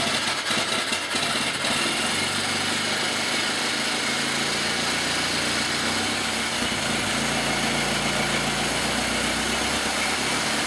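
Rebuilt 1925 Ford Model T four-cylinder flathead engine, crank-started on its magneto. It catches in the first second and then runs steadily at idle.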